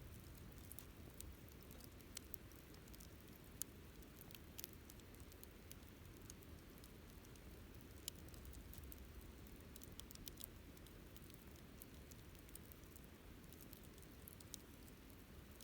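Wood campfire crackling faintly: scattered sharp pops and ticks over a low steady rumble, with two louder pops, one about four seconds in and one about eight seconds in.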